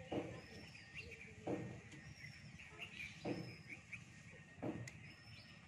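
Birds calling: a short, high call repeats about every second and a half, among scattered chirps, over a faint lower sound that swells at about the same pace.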